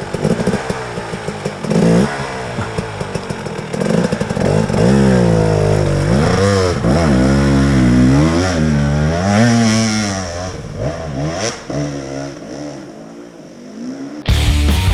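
Dirt bike engine revving up and down as the rider works the throttle, its pitch rising and falling over and over, fading away near the end. Loud rock music cuts in suddenly just before the end.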